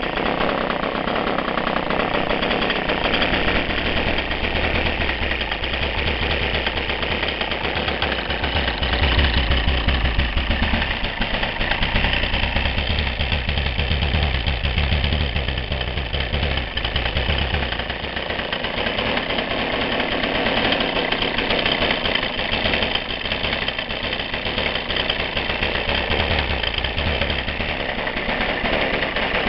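Petrol engine running steadily with a fast, even firing beat. Its low rumble grows stronger for several seconds about a third of the way in, and again later.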